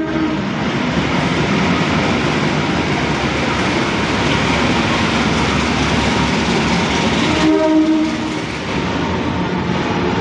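The Sawunggalih passenger train running with a steady rumble and rush. A short horn blast sounds right at the start, and another about three-quarters of the way through.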